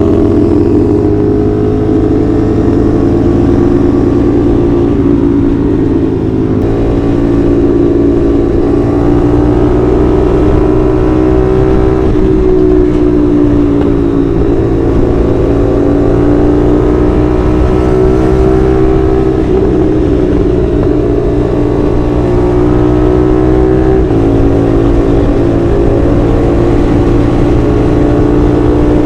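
CFMoto 450SR's 449 cc parallel-twin with a 270-degree crank, running steadily under way with its engine note drifting gently up and down. The note jumps abruptly about six seconds in and again near the end.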